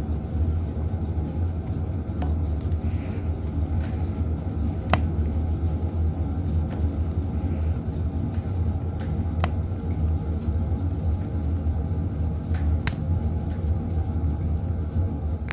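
Firewood burning in a wood stove: a steady low rumble of the fire with sharp crackles and pops every few seconds, three of them louder than the rest.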